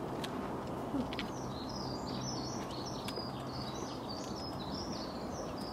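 A small songbird singing a fast, continuous run of short high chirps and twitters, starting about a second in, over a steady low outdoor background hum.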